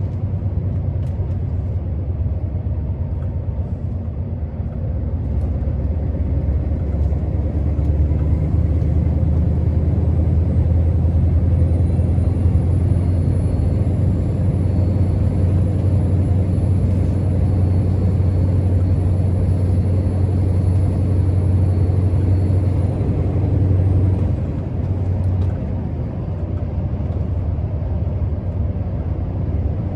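Scania R650's 16-litre V8 diesel engine running as the truck drives, a steady deep drone that builds a few seconds in and eases off briefly near the end. A faint high whine runs over the middle part.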